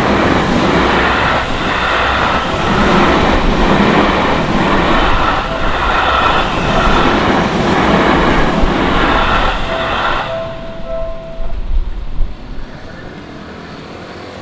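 Electric train of the Seibu Ikebukuro Line passing over a level crossing: loud wheel-on-rail running noise, with a clatter swelling about every second and a half as the cars go by. As it fades after about ten seconds, the crossing's electronic warning bells are heard ringing again for a moment before they stop.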